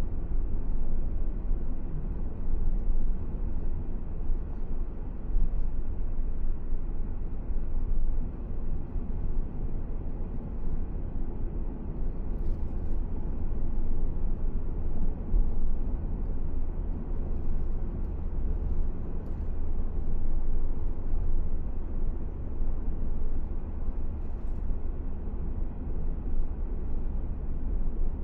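Steady rumble of a car driving along a paved road: low road and engine noise that holds even throughout.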